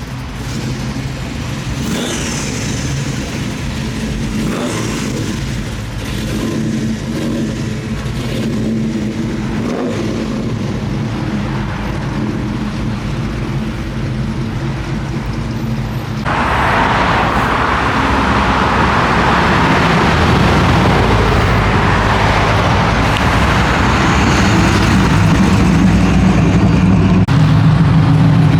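Car engine running steadily with a low drone. About halfway through, a broad rush of noise suddenly joins it and stays, and the sound grows a little louder toward the end.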